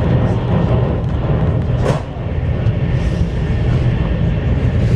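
CRH1A electric multiple-unit train running, a steady rumble and rush of wheels and air heard inside the passenger car, with one brief click about two seconds in.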